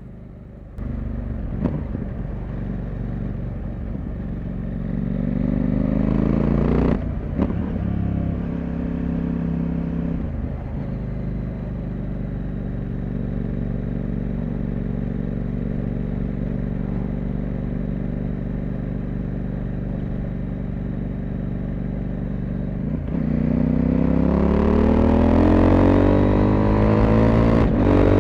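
CFmoto 800MT parallel-twin motorcycle engine and exhaust pulling under throttle. It accelerates with rising revs, changes gear about seven seconds in, runs steadily at cruise, then accelerates harder and louder near the end.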